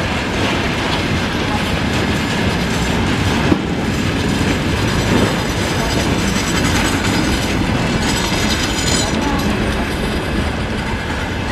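Loaded freight train rolling past at speed, a loud, steady rumble and clatter of wagon wheels on the rails as tank cars, container flatcars and open gondola wagons go by. A single sharp knock sounds about three and a half seconds in.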